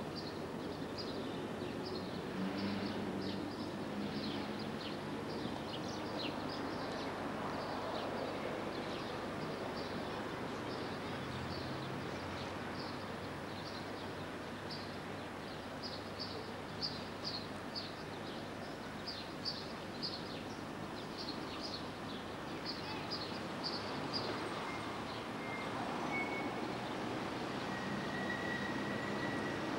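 Small birds chirping in quick high runs over a steady background of town traffic. About 24 seconds in, a thin, steady high whine sets in.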